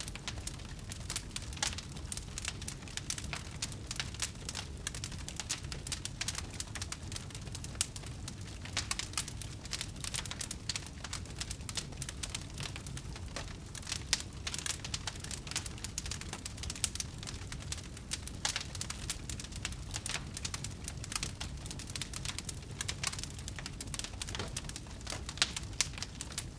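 Wood fire in a fireplace crackling continuously: a dense, irregular scatter of sharp pops and snaps over a low rumble of flames.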